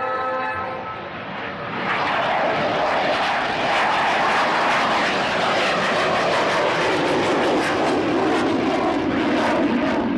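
F/A-18 Hornet's twin jet engines coming in loud about two seconds in as the jet makes a low pass, the roar's pitch falling steadily as it goes by.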